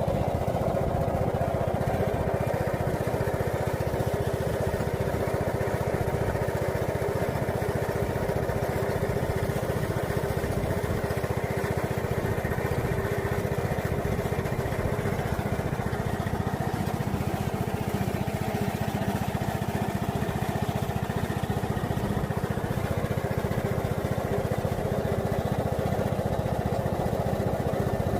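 A small engine running steadily at an even speed, a continuous low buzz.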